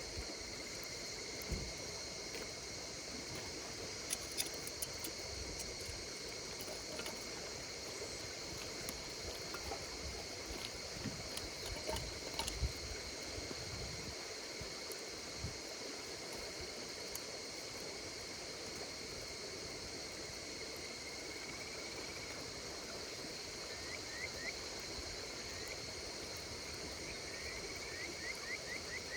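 Wood campfire crackling, with sharp pops and snaps mostly in the first half, over a steady chorus of insects trilling. A few short rising chirps come near the end.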